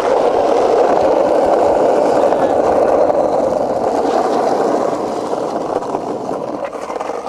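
Skateboard wheels rolling over rough concrete: a steady rolling noise that fades over the last couple of seconds.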